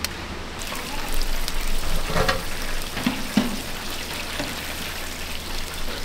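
Food frying in a kitchen: a steady sizzle, with a few light knocks of utensils.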